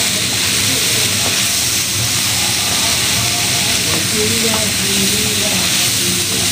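Pumpkin and mixed vegetables sizzling in hot oil in a frying pan, stirred with a wooden spatula: a steady frying hiss. The vegetables are dry-frying in their own steam, with no water added.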